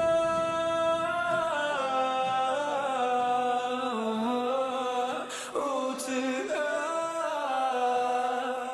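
Music: a solo voice singing a slow melody, holding a long note at the start, then sliding between notes, with little or no accompaniment.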